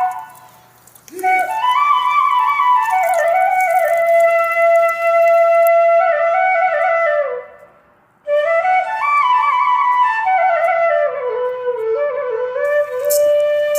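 Flute music: a melody played in two phrases, each stepping downward in pitch, with a short pause about eight seconds in.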